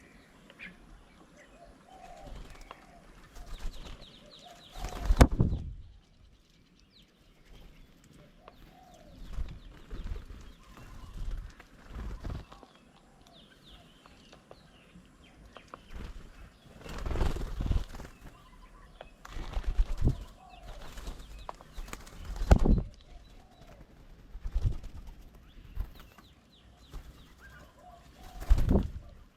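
Pigeons and doves flapping their wings in short loud flurries, about ten times, as they land and take off, with soft cooing between the flurries. The loudest flurry is about five seconds in.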